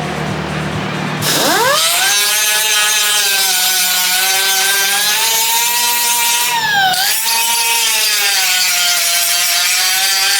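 Power tool motor spinning up about a second in, then running with a high whine whose pitch sags and recovers as load comes and goes, with a sharp dip near seven seconds.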